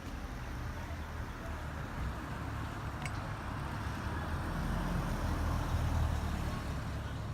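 A motor vehicle running, with road noise, growing louder around the middle.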